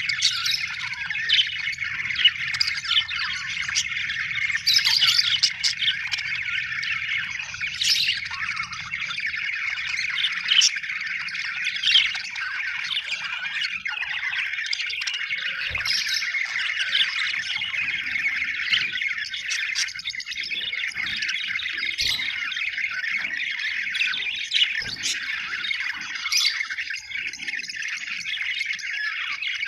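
A group of budgerigars chattering and warbling without a break, with frequent short, sharp chirps and squawks standing out over the chatter.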